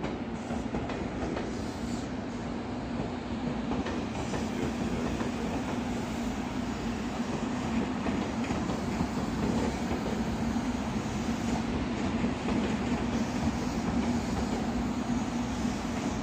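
JR Kyushu 883 series electric express train pulling out and running past at low speed: wheel-on-rail running noise with a steady low hum, growing gradually louder.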